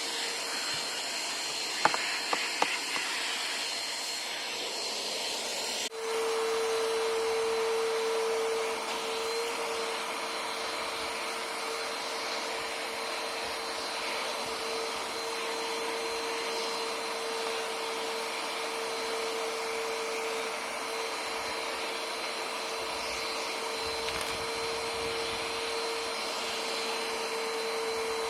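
Vacuum cleaner running steadily, with a few sharp clicks about two seconds in. About six seconds in, the sound changes abruptly to a louder, steady whine.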